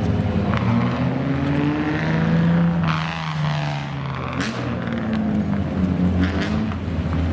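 Supercar engines running and revving, their pitch rising and falling several times.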